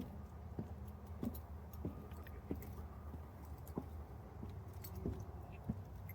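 Footsteps of a person walking at a steady pace on a path, about one and a half steps a second, over a steady low rumble of distant road traffic.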